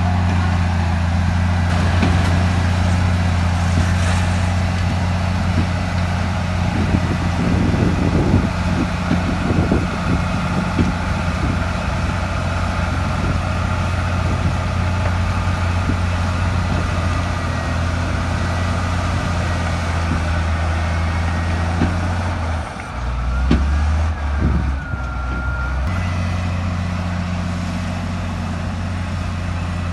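Heavy bulldozer diesel engine running steadily at working revs, with a run of knocks and clanks about a third of the way in. Late on the engine note drops lower for a few seconds, with a faint whine, then comes back up.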